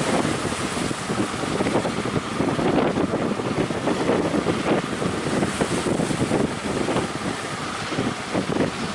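Strong wind gusting against the microphone over the continuous wash of sea waves and surf.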